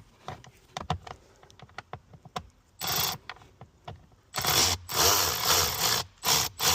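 A power driver with a T20 Torx bit runs in several short bursts, backing out a screw on the cabin air filter cover, after a few seconds of small clicks as the bit is fitted.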